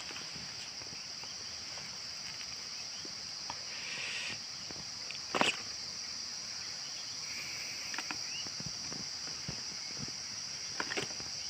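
Steady high-pitched insect chorus droning without a break, with scattered small clicks and rustles and one sharper click about halfway through.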